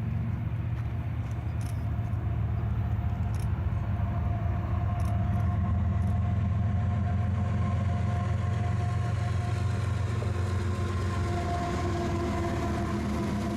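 Freight train running past with a steady low rumble. A couple of steady higher tones swell in from about four seconds in.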